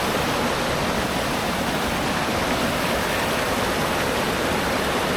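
Steady, even rushing of water falling over a waterfall, close by.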